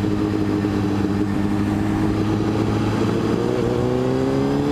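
Motorcycle engine running steadily under way, its pitch starting to rise about three seconds in as it picks up revs.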